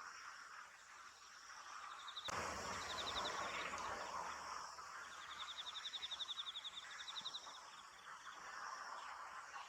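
A cricket chirping in fast, even trills of pulses, two runs of them, over a steady background of insect noise. A low rumble starts about two seconds in.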